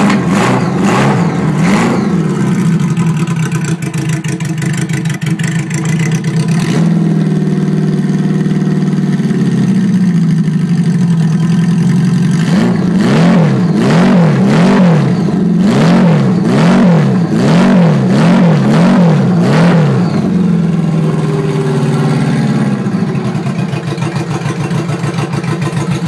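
Honda Gold Wing motorcycle engine through custom straight pipes, idling and being revved. There are a few quick blips at the start and a steadier stretch, then a run of about ten rapid revs in a row from about halfway through, before it settles back to idle.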